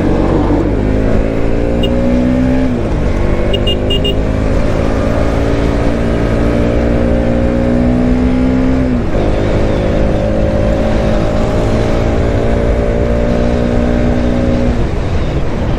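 Bajaj Pulsar NS motorcycle engine, heard from the bike, accelerating up through the gears: its pitch climbs steadily, drops at an upshift about three seconds in and again about nine seconds in, then holds before fading under wind rush near the end.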